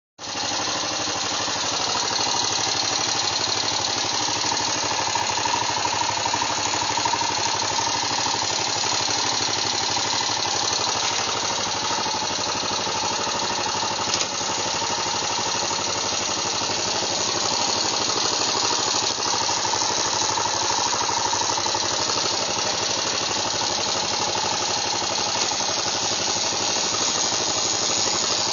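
Yamaha XT 600E's air-cooled single-cylinder four-stroke engine and gearbox running steadily, with the strange grinding gearbox noise that shows up in 3rd and 5th gear.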